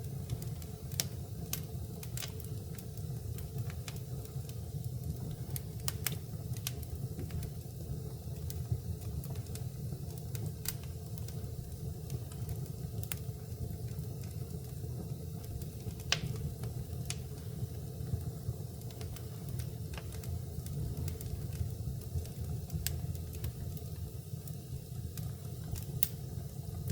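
Wood fire burning in a fireplace: a steady low rumble of the flames with sharp crackles and pops scattered irregularly throughout.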